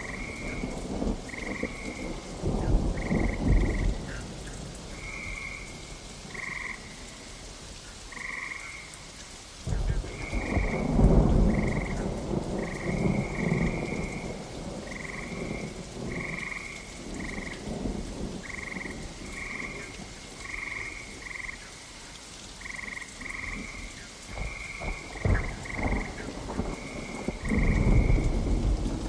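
Steady rain with three low rolls of thunder, the loudest about ten seconds in and another near the end. A run of short, high animal calls repeats roughly once a second over the rain.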